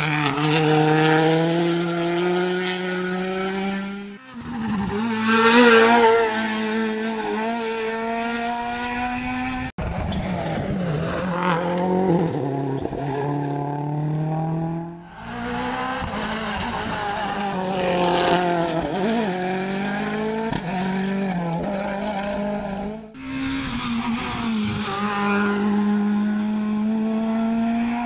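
Rally cars driven flat out, one after another, their engines revving high and rising and falling through quick gear changes.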